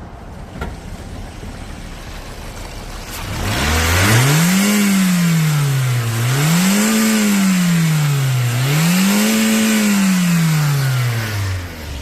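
Toyota 2NZ-FE 1.3-litre four-cylinder engine running, its manifold catalytic converter missing. It idles at first, then from about three and a half seconds in it is revved up and let fall back three times in slow, even swells, settling back toward idle near the end.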